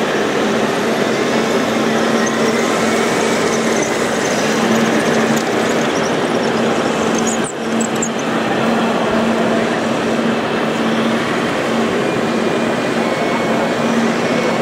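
Steady mechanical running noise with a constant hum, dipping briefly about halfway through.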